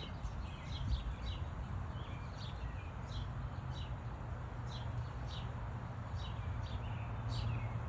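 Small birds chirping: short, high, downward-slurred chirps at about two a second, over a low steady hum.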